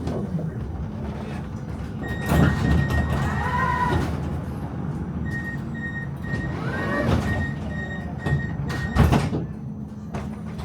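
Tram stopped with its doors working: loud knocks about two, seven and nine seconds in, a steady high-pitched beep while the doors are open, and a low steady hum from the tram's equipment underneath.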